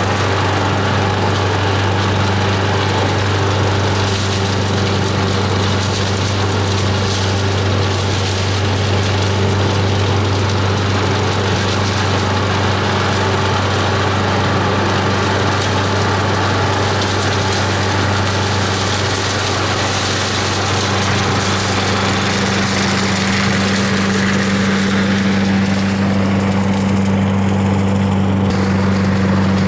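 Parker Scavenger SV89301CSP large vacuum cleaner running steadily as it sucks up leaves, a constant low hum under a loud rushing hiss; the hiss drops back for a moment near the end and then returns.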